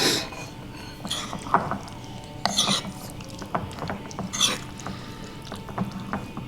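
Household objects being handled: scattered light clinks and clicks, with short louder rustling or scraping noises at the start and about 2.5 and 4.5 seconds in.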